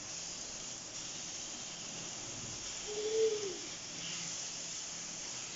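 Freshly added chopped onions sizzling in hot oil in a pot: a steady faint hiss, at the start of frying them golden. A brief low tone about three seconds in rises slightly and then falls.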